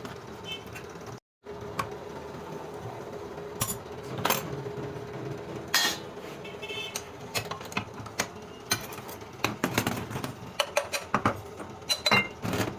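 Metal tools and turbocharger parts clinking and knocking against each other, a string of irregular sharp taps and clanks.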